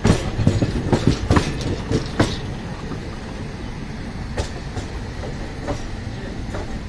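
Train wheels running on the track: a quick run of clattering clicks over rail joints or points in the first two seconds, then a steady rumble with a few single clicks.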